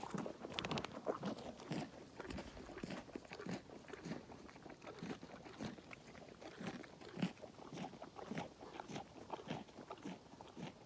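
Animals crunching and chewing raw carrots close to the microphone: a run of crisp, irregular crunches, about one or two a second.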